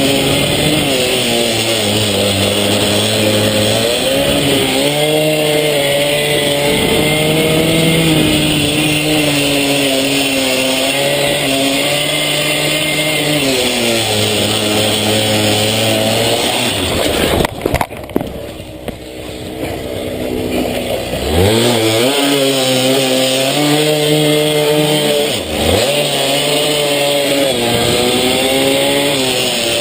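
Small pitbike engine running hard, its pitch climbing and dropping back as it is shifted through the gears. About seventeen seconds in, a few sharp knocks from a crash, after which the engine runs quieter for a few seconds, then revs back up in quick bursts and carries on through the gears.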